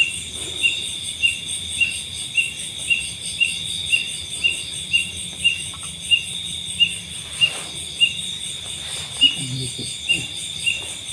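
Night insects chorusing: a steady high trill with a short sharp chirp repeating about twice a second. A brief low sound comes about nine seconds in.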